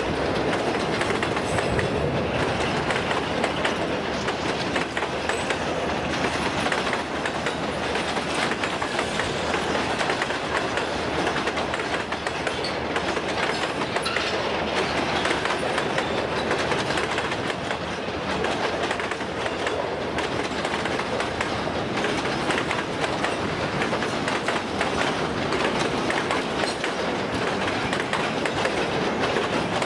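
Freight train's wagons rolling past with a steady clatter of wheels over the rails.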